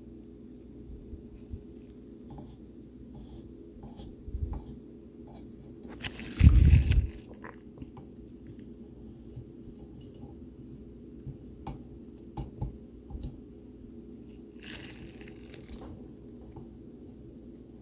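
Small scattered clicks and taps of hand-soldering work on a circuit board, over a steady low hum. About six and a half seconds in comes a louder, scratchy rustle lasting under a second, and a softer hiss follows near fifteen seconds.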